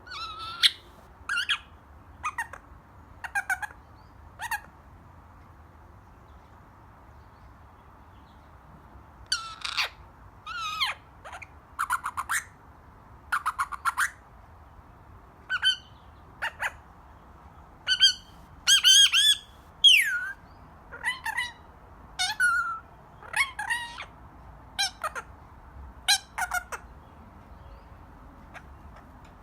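Baby Indian ringneck parakeet giving a string of short squawks and chirps, several of them sliding in pitch, with a pause of a few seconds in the first third.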